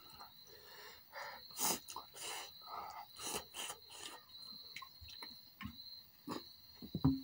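Close-miked eating of spicy chicken drumsticks: wet chewing and lip-smacking, in many short separate sounds several times a second.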